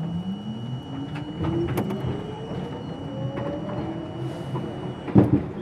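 R42 subway train's traction motors whining and rising steadily in pitch as the train accelerates, with scattered clicks of the wheels over rail joints. A steady high tone stops about five seconds in, followed at once by a loud clack.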